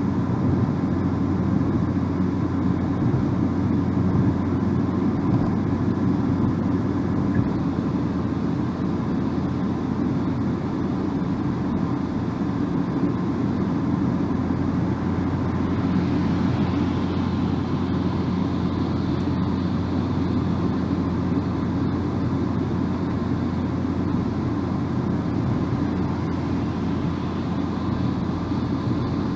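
Car driving at speed with a steady low rumble of road and engine noise, as heard inside the cabin. A faint higher hiss joins about halfway through.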